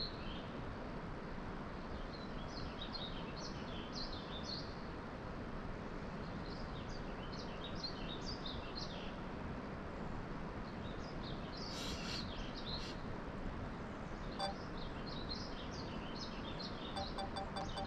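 Small birds chirping in clusters of short, high calls over a steady outdoor hiss.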